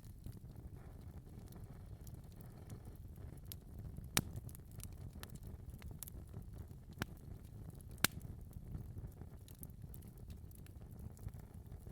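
Wood fire burning in a fireplace: a steady low rumble of the flames with scattered crackles and pops, three sharper pops standing out about four, seven and eight seconds in.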